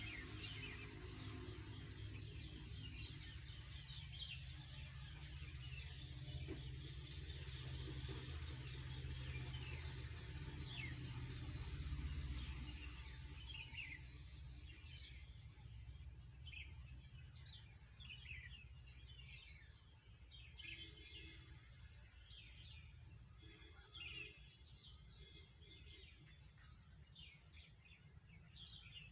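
Small birds chirping, with short quick calls repeating throughout and coming thicker in the second half, over a low steady rumble that fades about halfway through.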